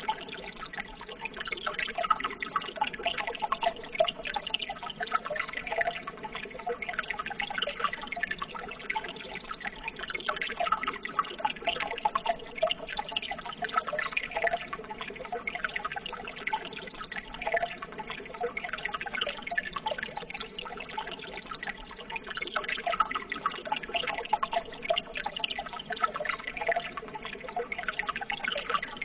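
Running water babbling steadily, a continuous stream of small splashes and trickles with no let-up.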